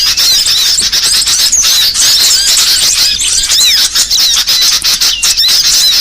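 Dense chorus of small songbirds chirping and twittering together, quick high chirps and short rising and falling whistles overlapping without a break.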